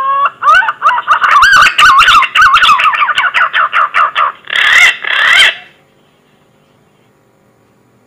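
Green pigeon (punai) call played as a hunting lure: a rising whistle, then a fast run of wavering, warbling whistled notes, ending with two harsher notes and breaking off about six seconds in.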